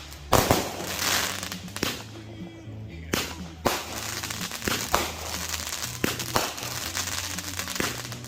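Consumer firework cake going off: sharp shot bursts a second or so apart, with dense crackling after a loud burst just at the start and again around three seconds in.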